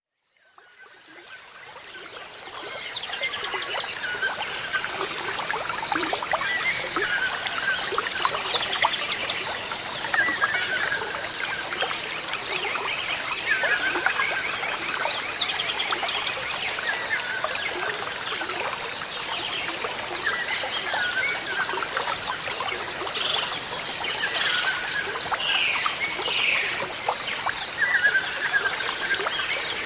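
Water trickling in a stream, with birds calling over it; one bird repeats a short phrase every few seconds among scattered chirps. The sound fades in over the first few seconds.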